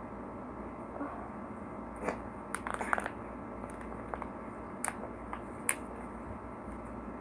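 Close-up crunchy biting and chewing of fried food. A quick cluster of crunches comes a little after two seconds in, and single sharp crackles follow near five and six seconds, over a steady low hiss.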